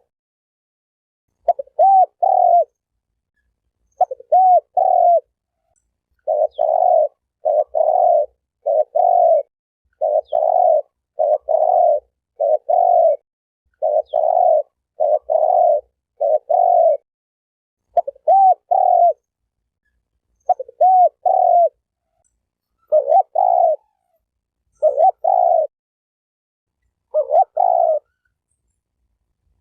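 Spotted dove cooing: short low coos in phrases of two or three, repeated over and over, each phrase often opening with a note that bends up and down.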